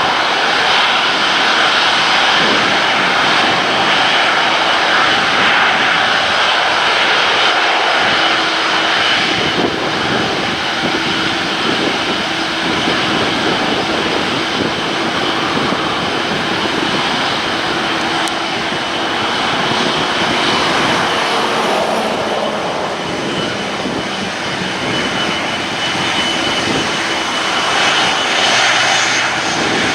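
Airbus A330-243F freighter's Rolls-Royce Trent 700 turbofans running: steady jet engine noise with a high whine over it, swelling slightly near the end.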